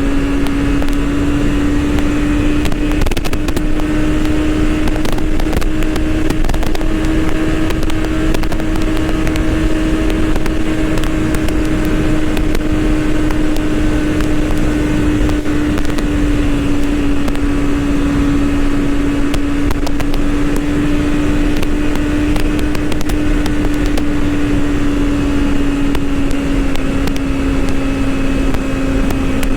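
BMW S1000RR inline-four engine running at steady cruising revs while riding, its note holding a nearly constant pitch, with a rush of wind noise underneath.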